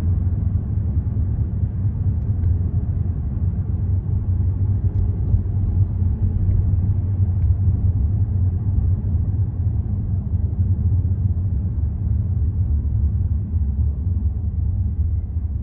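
Car driving on city roads: a steady low rumble of engine and tyres.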